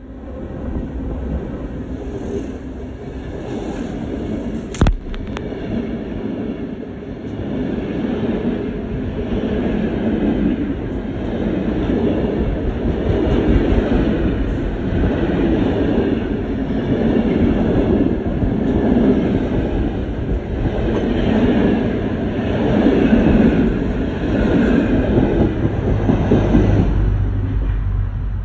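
Diesel-hauled passenger train passing close by: the locomotive and then a string of coaches rumble past, steel wheels running loudly on the rails. There is a single sharp click about five seconds in, and the sound eases slightly as the last coach goes by near the end.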